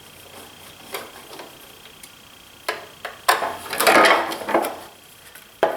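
Planer parts and screws being handled during disassembly: light clicks, then a scraping clatter about three seconds in, and a sharp click near the end.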